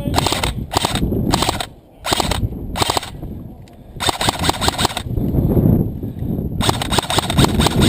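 Airsoft guns firing in short rapid full-auto bursts, several in quick succession, then a lull, then a longer sustained burst near the end.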